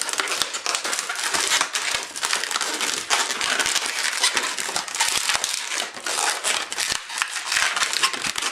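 Inflated latex modelling balloon being twisted and tied in by hand: the rubber rubs and squeaks in a steady run of quick strokes.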